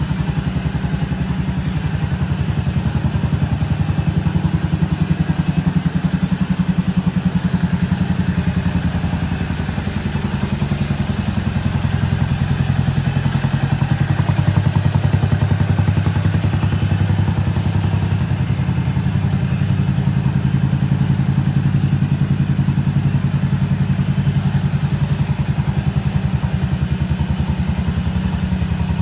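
Suzuki Skywave 250S (CJ43A) scooter's single-cylinder four-stroke engine idling through an aftermarket muffler, a steady, even exhaust beat.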